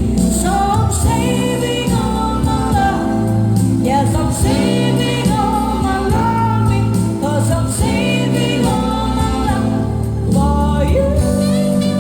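Live band playing soft dinner music, with a sung melody over a steady bass and keyboard accompaniment.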